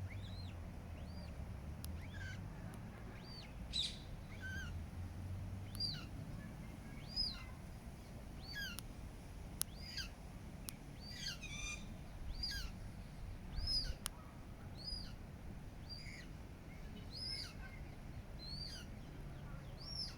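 Eurasian coot chicks peeping: a long series of thin, high calls, each rising and falling, about one a second, with a few sharp clicks among them.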